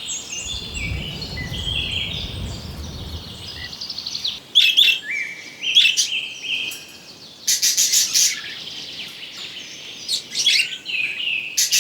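Small birds chirping and twittering in many short high notes, with a few louder bursts of rapid chirping between about four and eight seconds in.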